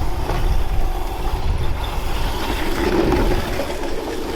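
Electric Crazy Cart drift kart being ridden, with a steady low rumble of its wheels on the track and wind buffeting the microphone.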